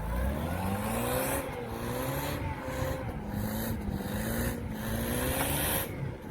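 UAZ 4x4's engine working under load off-road, its pitch rising and falling over and over as the throttle is worked, with repeated bursts of hiss over it.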